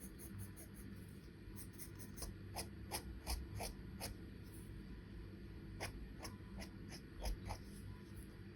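Charcoal pencil scratching on paper in quick short strokes, coming in two irregular runs, one in the first half and one past the middle.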